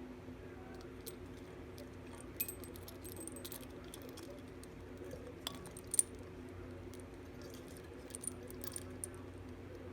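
Scattered light clinks and taps of small hard objects, a few at a time, over a steady low hum.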